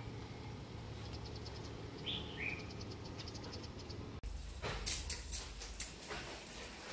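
Faint steady hum with two short falling chirps, likely a small bird, about two seconds in. After an abrupt cut, a handful of sharp knocks and rustles.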